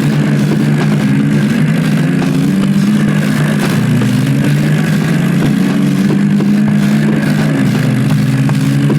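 Diesel tractor engines running hard under heavy load as they pull against each other in a tug-of-war, with a loud, steady note whose pitch slowly rises and falls.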